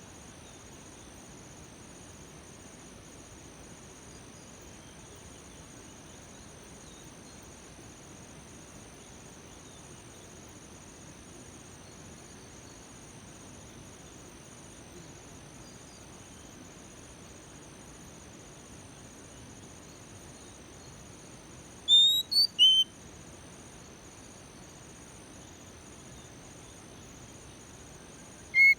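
Steady, high-pitched cricket chirring, interrupted about three-quarters of the way through by a short burst of loud whistled notes from an oriental magpie-robin. Another burst of its whistles starts right at the end.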